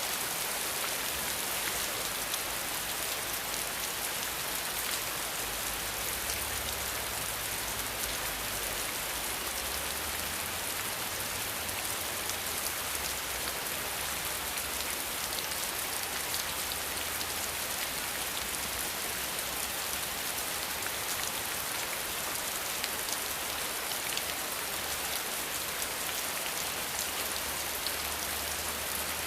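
Steady rain falling on surfaces, an even hiss of many drops throughout. A faint low rumble comes and goes underneath.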